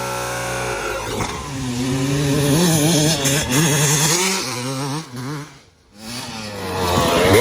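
Yamaha YZ250 two-stroke motocross bike engine revving up and down on the throttle while riding. The engine sound drops away almost completely a little before six seconds in, then revs up hard again near the end.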